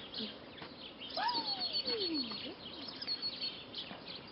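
Small songbirds chirping and twittering in high, short calls, with one long tone gliding steadily downward about a second in.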